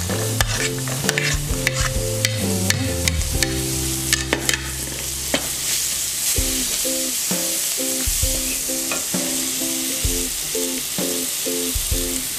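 Sliced shallots and garlic sizzling in hot oil in a wok, stirred with a wooden spatula that clicks and scrapes against the pan. The clicks come thick and fast through the first half, then fewer.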